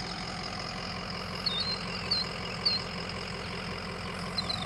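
Killdeer giving short, high calls, four in all, over a steady low engine hum.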